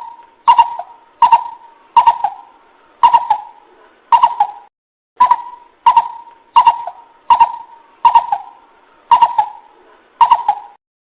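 A coucal (bubut) giving a long series of short, hollow hoots, about one every two-thirds of a second. There is a brief pause about five seconds in, and the series stops just before the end. It is the call used as a lure to draw other coucals in.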